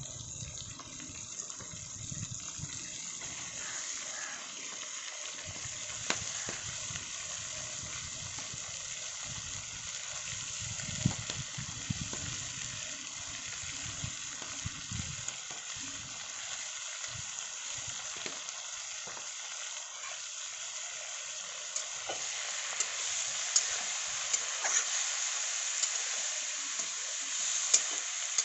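Food frying in a cooking pan: a steady sizzling hiss that grows louder about three quarters of the way through, with sharp crackles near the end.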